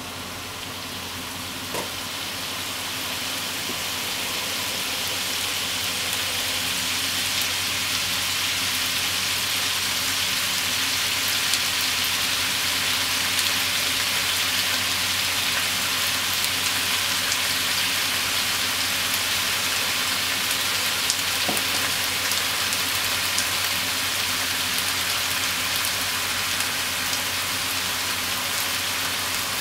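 Pork belly, shimeji mushrooms and onion sizzling in a frying pan. The sizzle builds over the first few seconds, then holds steady with scattered small pops.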